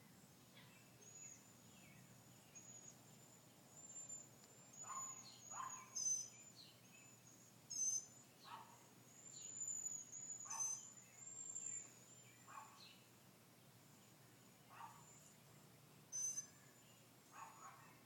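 Faint bird calls: short chirps that slide downward in pitch, mixed with high thin whistles, scattered irregularly and busiest in the middle, over a low background hiss.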